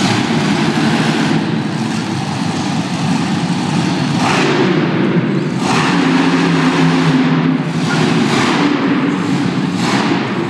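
Monster truck engine revving hard in repeated surges, about four times.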